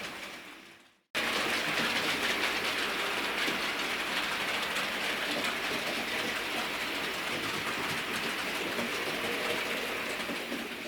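Model train running steadily on layout track: an even rolling hiss with faint clicking. It starts abruptly about a second in and fades out near the end.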